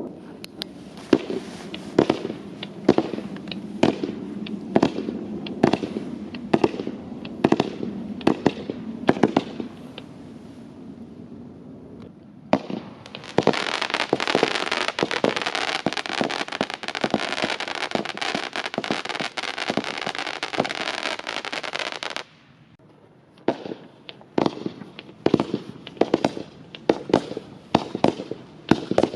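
A 20 mm multishot comet firework cake firing, its shots about two a second. Partway through, the shots give way to a dense, steady hiss for about nine seconds that cuts off suddenly, and then the shots start again.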